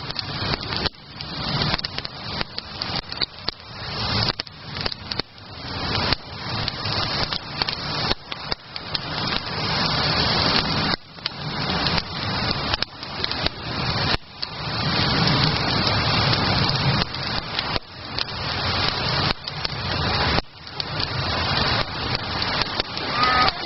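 Wood campfire crackling and popping, with many sharp snaps over a rushing hiss that swells and fades every few seconds.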